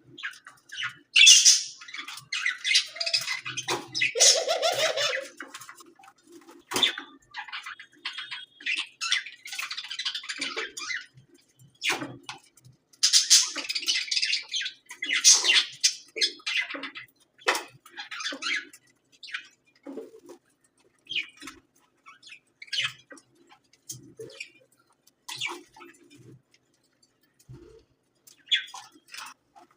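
Budgerigar chirping and squawking in short, irregular bursts, busiest in the first half and sparser toward the end.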